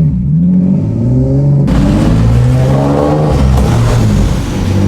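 Single-turbo Nissan 370Z's 3.7-litre V6 engine accelerating. About a third of the way in a louder hissing rush comes in suddenly and the pitch climbs, then it dips briefly about three and a half seconds in before running on.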